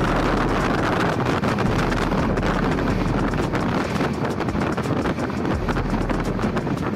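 Passenger train running at speed, heard from on board: wind buffets the microphone over the rumble of the train and a steady run of clicks and clatter from the wheels on the track.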